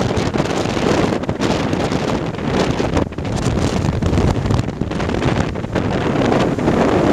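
Strong typhoon wind buffeting the microphone, a loud continuous rush that swells and dips in gusts.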